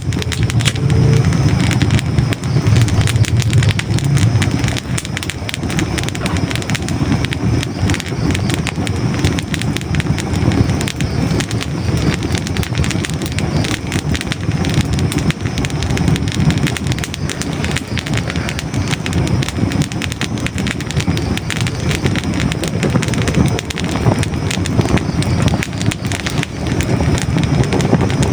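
Hardwood logs burning in a fireplace: a steady low rush of flames with dense, continuous crackling and small pops.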